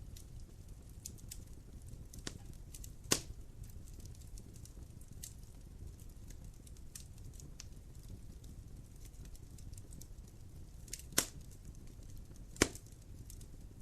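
Wood fire in a fireplace crackling: scattered small clicks and pops over a low, steady rumble, with three louder pops, one about three seconds in and two near the end.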